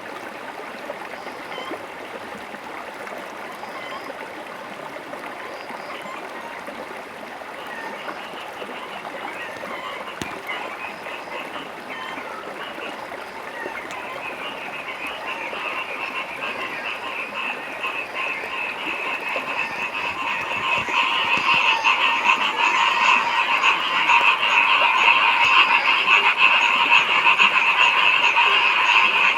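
A chorus of frogs croaking in dense, rapid pulses, thin at first and building steadily, then markedly louder from about two-thirds of the way in.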